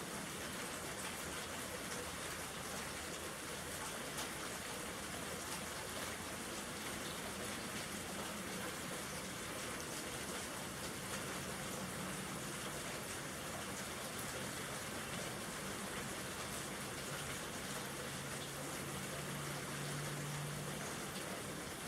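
Steady rain falling, an even hiss with scattered drop ticks. A faint low hum comes in about halfway and grows a little near the end.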